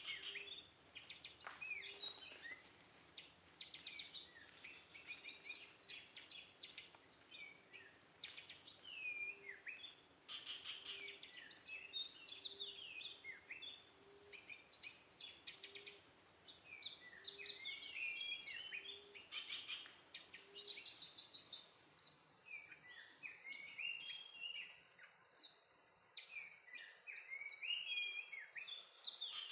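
Songbird song: rapid chirps and short whistled phrases, nearly continuous, over a steady high-pitched insect-like whine that fades about three quarters of the way through. A soft low note repeats about every second and a half.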